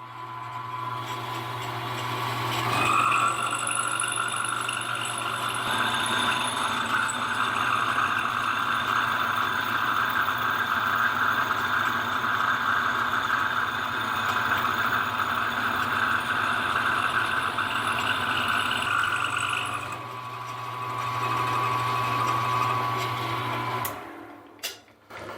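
Small milling machine running and taking a cut in metal to remove the last 35 thousandths. The motor hum starts at the beginning; the cutting noise comes in about three seconds in, stops about four seconds before the motor, and the motor winds down near the end.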